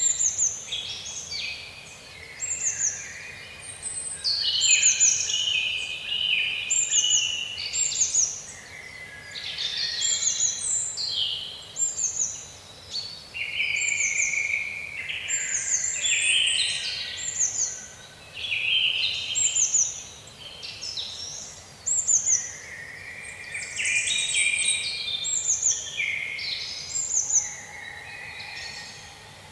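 A chorus of birds chirping and singing over one another, with many short high whistles that slide downward in pitch, repeated every second or so, and busier stretches of calls coming and going.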